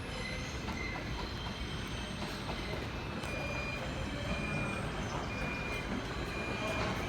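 R160 subway train running on the track, with the wheels giving short, repeated high squeals. It grows slowly louder.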